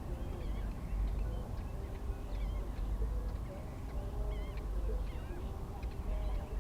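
Birds calling in short, repeated chirps over a steady low rumble.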